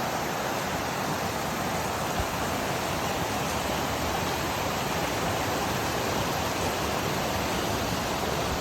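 Mountain waterfall rushing, a steady even roar of falling water.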